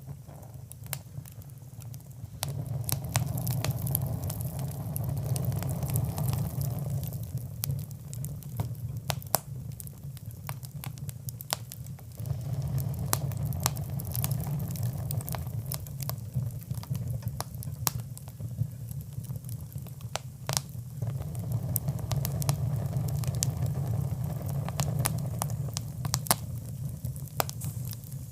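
Fireplace fire crackling, with many sharp, irregular pops over a low rumble of burning that swells and eases in stretches of several seconds.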